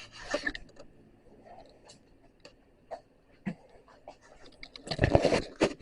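A metal shrinking disc being cleaned by hand: short rubbing and scraping strokes at the start, scattered small clicks and taps, and a louder rub about five seconds in.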